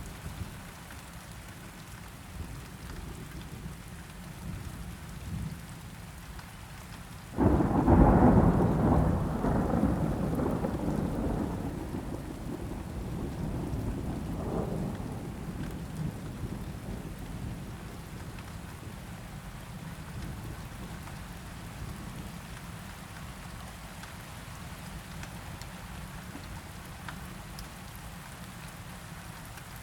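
Steady rain with a sudden thunderclap about seven seconds in, which rumbles on and fades over several seconds. A softer second rumble follows a few seconds later.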